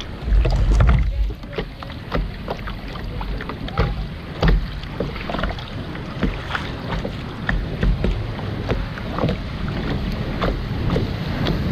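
Kayak paddle strokes splashing in river water, with scattered sharp splashes and knocks over a running water hiss. A loud low rumble of wind on the microphone about half a second in.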